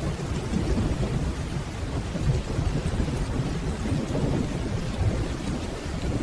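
Steady rainfall with a low, deep rumble of distant rolling thunder running underneath.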